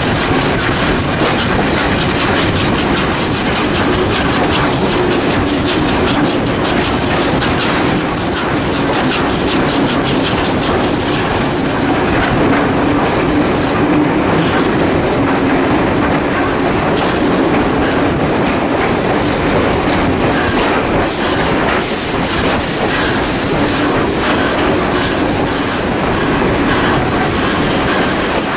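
Passenger train running on the rails, heard from inside a carriage hauled by steam locomotive 621: a steady, loud rumble of the wheels with clickety-clack over the rail joints. A sharper high sound, like wheel squeal, joins in for a few seconds about three quarters of the way through.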